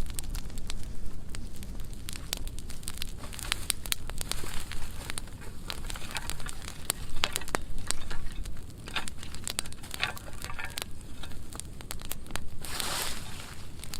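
Burn pile of dry pruned wood burning, crackling with many sharp pops over a low rumble. Near the end there is a louder rush of noise lasting about a second.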